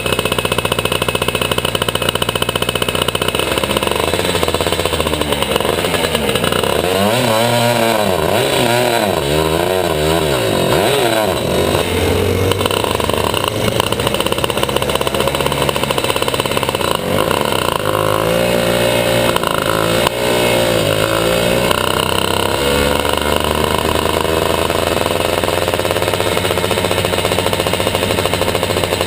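Two-stroke superkart engine running hard at high revs. Twice it goes through a run of quick dips and climbs in pitch as the revs fall and pick up again, once about a quarter of the way in and once about two thirds of the way in.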